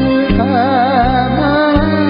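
Karaoke singing: a solo voice holds notes with wide vibrato over a backing track with a steady bass beat.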